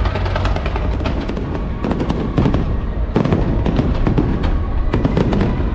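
Aerial fireworks going off in rapid succession, a dense run of bangs and crackles that thickens about two seconds in, with music playing underneath.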